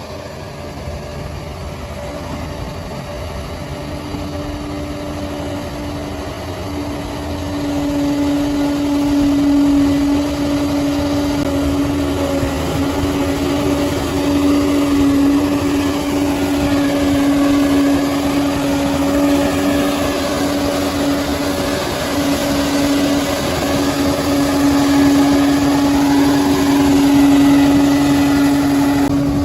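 Bulldozer's diesel engine running with a steady drone, growing louder about seven seconds in. A wavering higher whine comes and goes over it in the second half.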